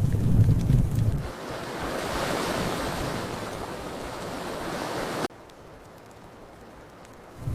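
Fireplace fire rumbling low with crackles, giving way after about a second to a steady rushing hiss that cuts off abruptly; faint hiss remains for about two seconds before the fire sound returns at the end.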